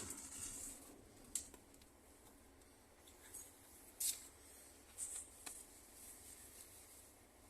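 Quiet passenger train carriage: a faint low steady rumble, with a few short clicks and rustles scattered through it, the sharpest about four seconds in.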